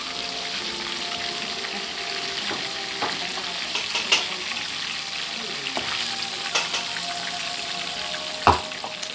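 Marinated pork slices frying in hot oil in a wok, a steady sizzle. Metal tongs click against the pan a few times as the last pieces are lifted out, the loudest click near the end.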